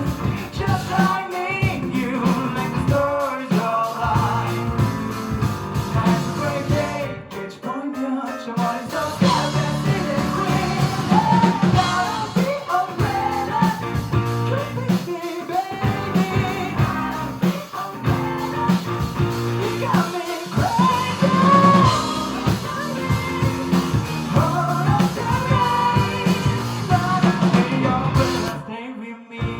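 Live rock band performance with a singer, drums and guitar, heard as a concert recording; the music drops out briefly twice, about a quarter of the way in and just before the end.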